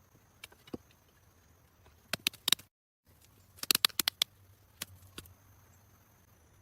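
Sharp clicks and knocks in quick clusters, with a faint steady high tone behind them.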